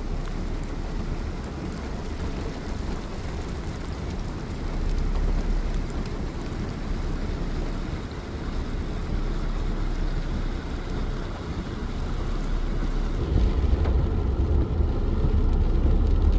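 Steady noise of heavy rain mixed with a car's running and tyre noise, with a low rumble that grows louder near the end.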